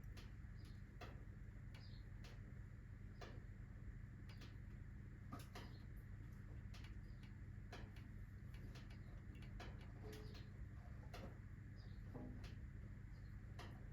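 Wood fire in a fireplace crackling quietly, with sharp pops at irregular intervals of roughly half a second to a second over a low steady hum.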